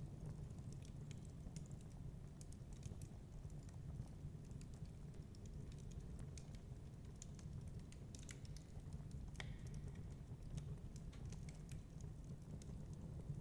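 Crackling wood fire: irregular small pops and snaps over a low, steady rumble of storm wind, with one sharper pop that rings briefly about nine seconds in.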